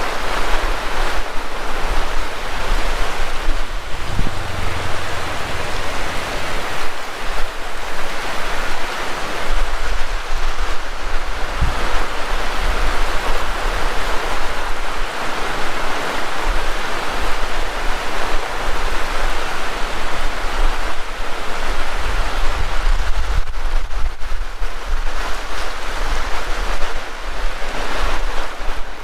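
Heavy rain pouring steadily, with strong wind buffeting the microphone in uneven low rumbles.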